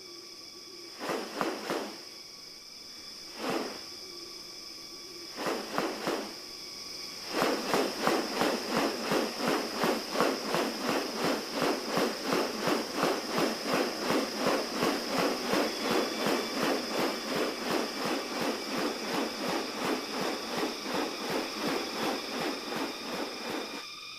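Rainforest animal sounds: steady high insect-like drones, a few short separate calls in the first seven seconds, then a rapid, even pulsing call at about three pulses a second that continues to the end.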